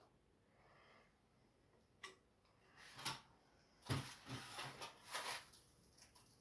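Faint hand-tool work: a sharp click, then several short scraping and rubbing strokes, as excess silicone is cleaned off a freshly sealed sink.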